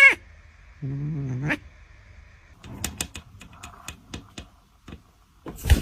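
A domestic cat giving one short, low growling yowl about a second in, the sound of an annoyed, agitated cat, followed by scattered light clicks and rustles.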